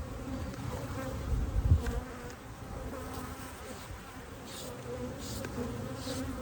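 Honeybees buzzing around an opened Kenyan top bar hive: a steady, even hum. About one and a half seconds in, a few dull low thumps rise over it.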